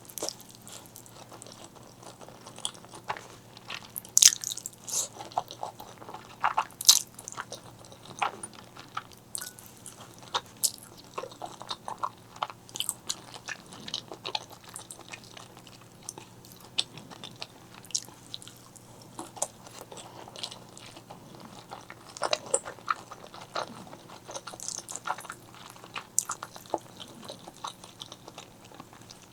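Close-miked ASMR eating: biting and chewing with many irregular crisp crunches and wet mouth clicks.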